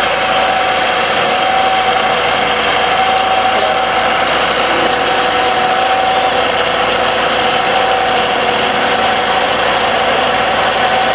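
Wood lathe running steadily, with a constant whine over an even noise.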